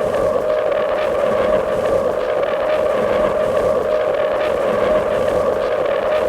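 Experimental noise music: a dense, steady wall of noise with a held droning tone running under it, even in loudness and unchanging.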